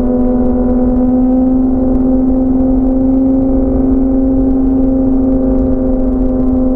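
Motorcycle engine running at a steady freeway cruise, holding one even drone, with wind rumbling on the microphone.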